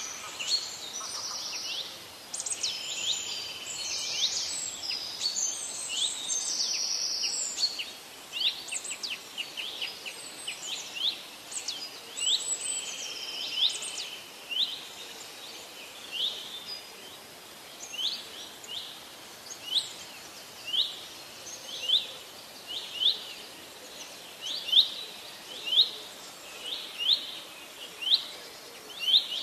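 Birds calling in the trees. For the first half several high chirps and trills overlap. Then one bird repeats a short, sharp high call about once a second, growing louder toward the end.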